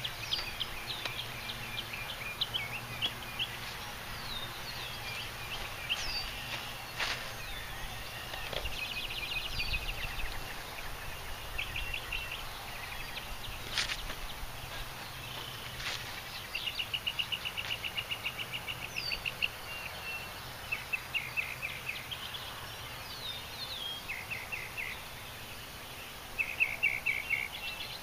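Songbirds chirping and singing: short chirps, downward-slurred notes and rapid trills, over a steady low hum. A few sharp clicks stand out from the birdsong.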